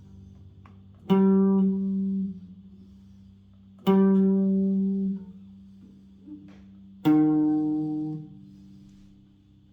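Bass guitar: three single plucked notes about three seconds apart, each ringing for about a second and then cut off. The first two are the same pitch; the third is lower.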